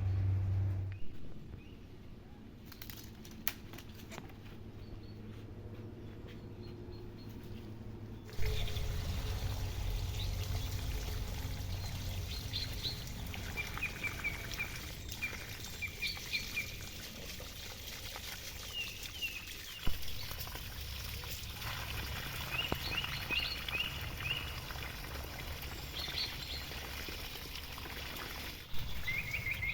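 Water pouring and trickling as a steady rush, with small birds chirping in short repeated calls through the second half.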